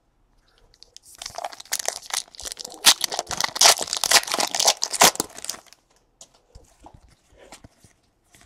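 Wrapper of a trading card pack being torn open and crinkled. A dense run of crackling starts about a second in and stops at about five and a half seconds, followed by a few faint clicks.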